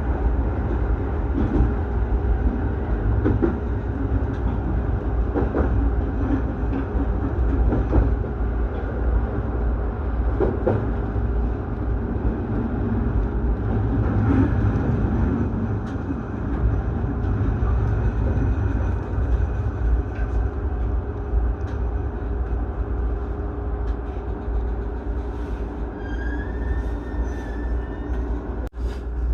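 Running noise heard inside a JR East Kawagoe Line electric commuter train between stations: a steady low rumble with occasional knocks from the wheels. A faint high squeal rises near the end.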